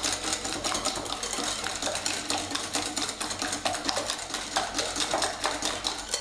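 Whisk beating eggs and coarse sugar in a bowl: a fast, even clicking and scraping of the whisk against the bowl, about five or six strokes a second, which stops abruptly at the end.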